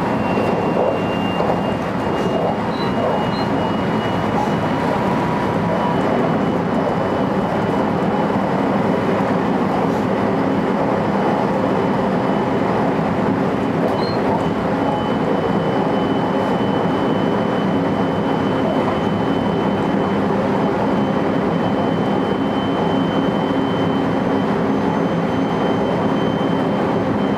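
JR electric train running steadily along the line, heard from inside the front car: a constant rumble of wheels on rail with a thin high whine that slowly rises in pitch.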